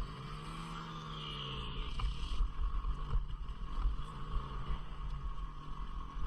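250 cc single-cylinder dual-sport motorcycle engine running on a trail, its pitch shifting briefly about half a second to two seconds in, over a steady low wind rumble on the microphone.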